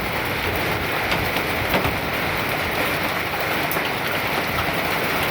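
Hail falling and striking hard surfaces: a steady dense patter with scattered sharper cracks from larger hailstones.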